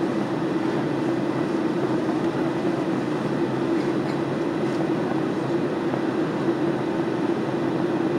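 Steady drone of a Boeing 757-28A in flight, heard from inside the passenger cabin: engine and airflow noise with a low, even hum.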